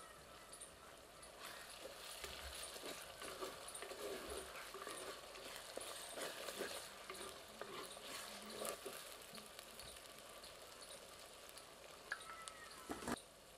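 Onions and green chillies sizzling and crackling in oil in a clay pot, with a wooden spatula stirring and scraping against the pot. A sharp knock near the end.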